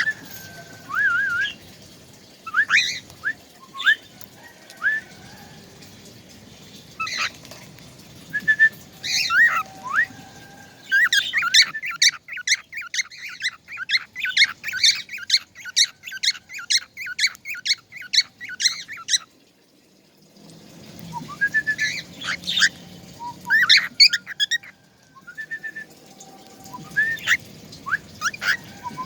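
A songbird singing in short whistled chirps and sliding notes. About eleven seconds in, it breaks into a rapid trill lasting some eight seconds, then pauses and goes back to chirping.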